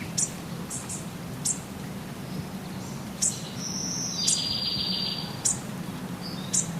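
Small birds chirping: short, very high chirps every second or so, with a thin high trilling call lasting about a second, about four seconds in.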